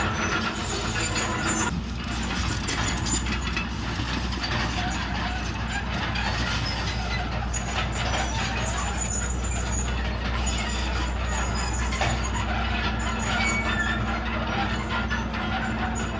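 Komatsu D31PX crawler bulldozer's diesel engine running steadily as the machine works, with a constant clatter over the low engine hum.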